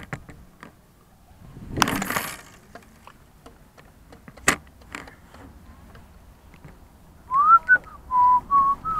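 A person whistling a short run of clear notes starting about seven seconds in: a quick upward slide, then a few held notes stepping up and down. Before it come scattered small clicks, a brief rustle about two seconds in and one sharp click about halfway through.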